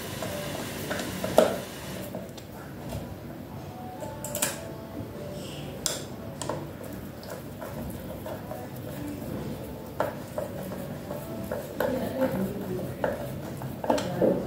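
Scattered clicks, clinks and knocks of parts and tools being handled during repair work on a washing machine, with one sharp knock about a second and a half in.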